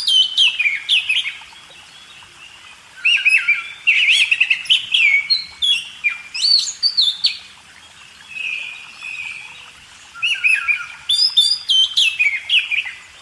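A songbird singing: phrases of quick, clear whistled notes, many sliding down in pitch, in three bursts (at the start, from about three to seven seconds in, and again near the end), with a softer warble between them.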